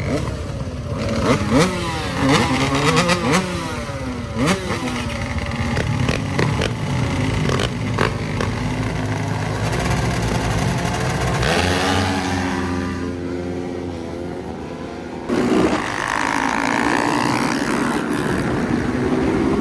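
Dirt bike engines revving, pitch repeatedly climbing and falling as they accelerate and shift; early on at least two engines are heard at once, their pitches crossing.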